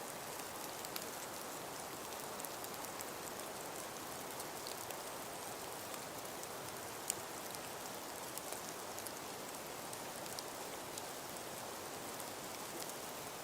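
Snow falling in wind: a steady hiss with many small ticks of flakes or ice landing, and one sharper tick about seven seconds in.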